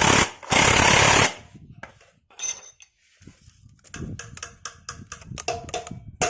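Power impact wrench rattling in two short bursts, about 0.8 s each, tightening a nut on the scooter's rear CVT pulley assembly. Lighter scattered clicks and knocks of tools on metal follow.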